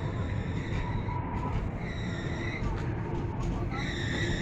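Passenger train rolling slowly out of the station with a steady low rumble, its wheels giving a high-pitched squeal twice, about two seconds in and again near the end.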